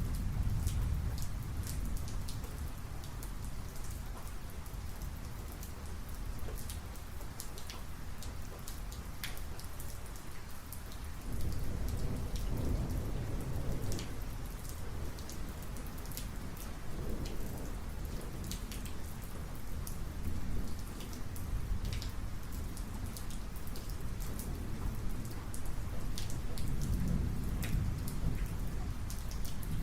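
Thunderstorm rain falling steadily, with individual drops ticking sharply close by. Low rumbles of thunder roll underneath, one swelling about eleven seconds in and another near the end.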